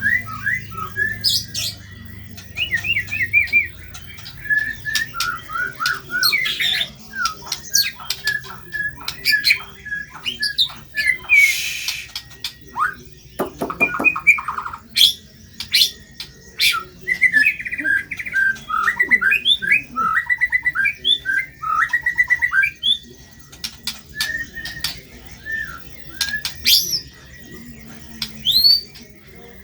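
White-rumped shama (murai batu) singing continuously: fast chattering trills and whistled phrases, with a harsh squawking call about halfway through followed by a quick rattle.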